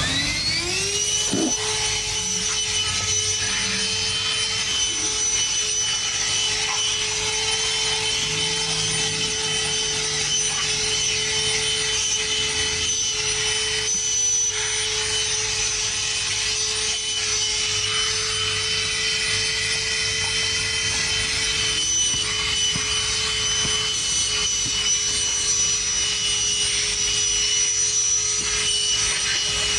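Black+Decker Dustbuster cordless handheld vacuum switched on at high power. Its motor spins up with a rising whine in the first second, then runs at a steady high whine.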